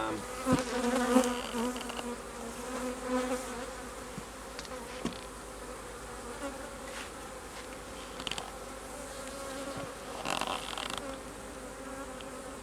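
Honey bees buzzing around an opened hive: a steady hum, louder in the first few seconds as bees fly close, with a few light knocks.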